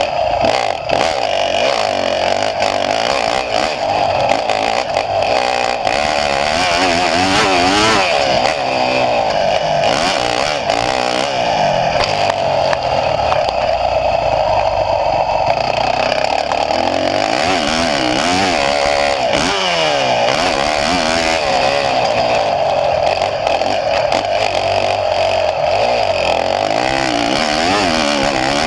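Motocross bike engine revving hard, its pitch climbing and dropping again and again as the bike is ridden round the track.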